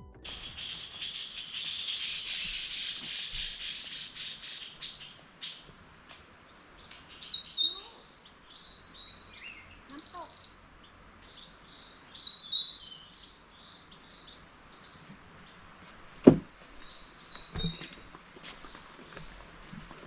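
Wild forest birds singing: short, high, repeated phrases every second or two, after a buzzing trill in the first few seconds. A sharp tap sounds once about two-thirds of the way through.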